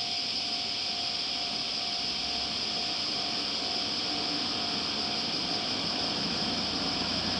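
A train approaching on the line at a railway level crossing: a low rumble builds from about halfway in, over a steady high hiss and a faint steady tone.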